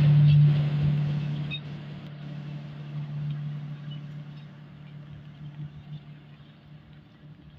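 A passing train moving away, leaving a steady low engine drone that fades out gradually.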